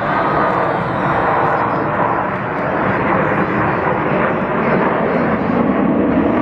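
Jet noise from the Black Eagles' aerobatic display jets flying past: a loud, steady rushing sound that swells a little but never breaks.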